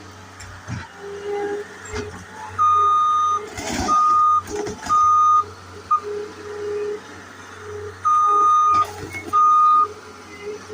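Skid steer's backup alarm beeping in short runs as the machine reverses, over its steadily running engine, with a couple of sharp knocks.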